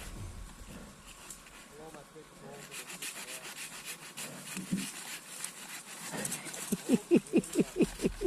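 Hand saw cutting through a fallen log, stroke after stroke; the sawing is faint at first, then turns into quick, loud back-and-forth strokes, about three or four a second, for the last couple of seconds.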